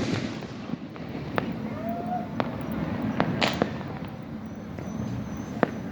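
New Year fireworks and firecrackers going off: the echo of a big bang fading at the start, then scattered sharp cracks and pops over a steady background din, one louder bang about three and a half seconds in.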